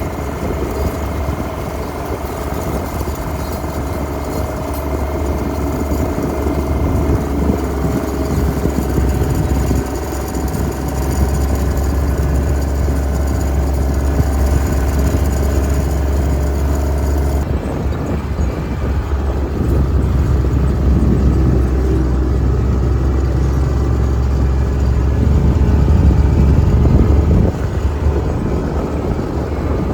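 Tractor engine running steadily with a deep, low hum. The sound changes abruptly about two-thirds of the way through.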